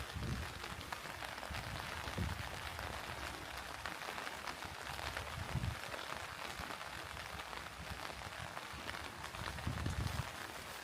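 Steady rain falling, a fine even patter of drops, with a few soft low thumps.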